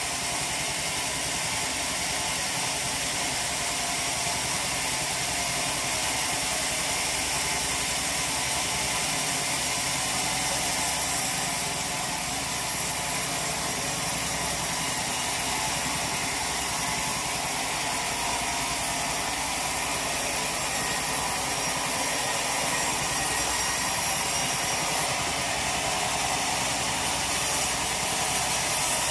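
Sawmill machinery running steadily, an even mechanical noise with a faint engine hum.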